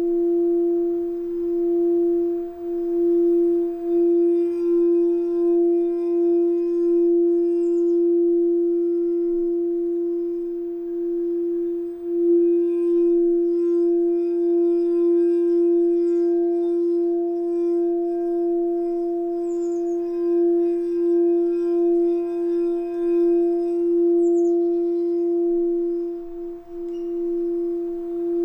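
Singing bowl sounding one long, steady tone with a weaker higher overtone, its loudness wobbling gently.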